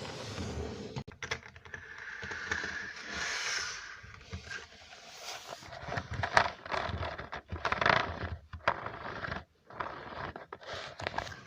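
Close-miked ASMR trigger sounds: irregular scratching and scraping mixed with light clicks and taps.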